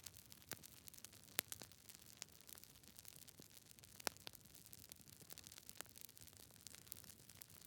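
Quiet campfire crackling: irregular sharp pops and snaps of burning wood over a faint hiss, with the loudest pops about a second and a half and four seconds in.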